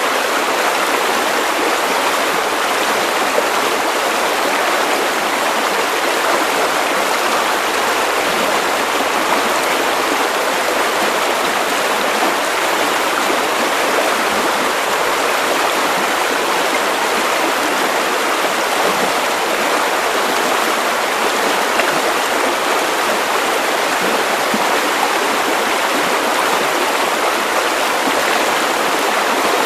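Steady white noise: an even, unbroken hiss with no changes, weighted toward the middle and upper pitches with little bass.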